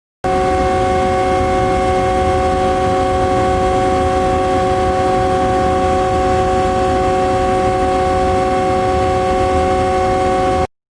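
Large power-plant generating machinery running at a constant speed: a steady drone of several high, unchanging whining tones over a low rumble. It starts and stops abruptly.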